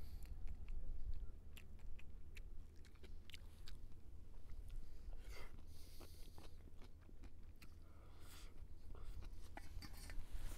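A person chewing and biting food, with scattered small clicks and crunches.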